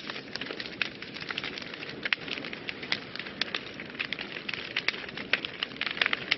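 Wood fire burning in a fireplace, crackling and popping with many sharp irregular snaps over a steady low hiss of flames.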